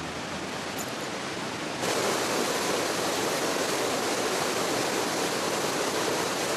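Rushing water, a steady hiss that jumps louder about two seconds in.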